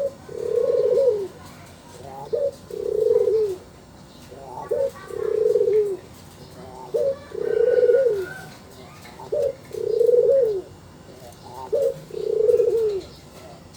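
Puter dove (Barbary dove) cooing over and over: each phrase a short rising note followed by a long coo of about a second that drops at the end, repeated about every two and a half seconds, six times.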